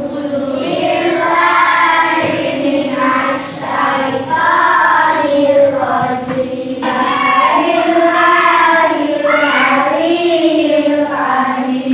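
A class of young schoolchildren reciting a prayer aloud together in unison.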